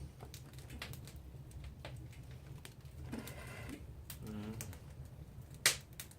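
Wood campfire crackling as it catches, with scattered irregular pops and one sharp snap near the end, over a low steady rumble.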